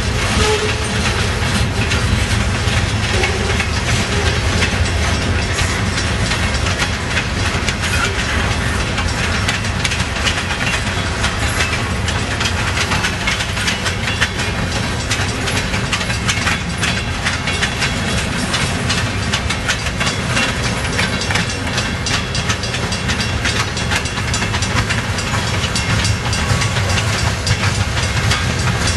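Freight cars of a long train rolling steadily past, their steel wheels clattering over rail joints in a continuous stream of clicks.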